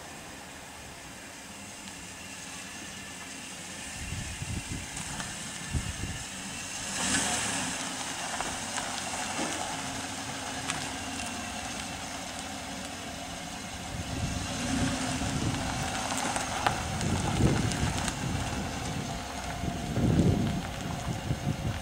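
A motor vehicle running, with uneven low rumbles and a few knocks that grow louder about four seconds in and again in the last third.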